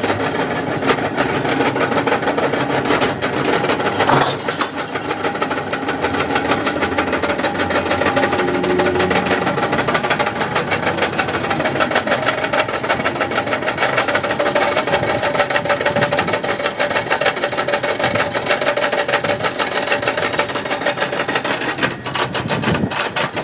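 A power cutting machine cutting into the steel shell of a refrigerator compressor: a steady, loud, harsh grinding with a fast rattling rhythm.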